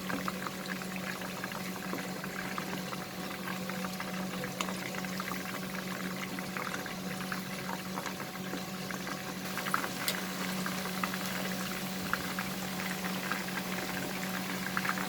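Coated chicken pieces deep-frying in hot oil: a steady sizzle with many small crackling pops, over a steady low hum.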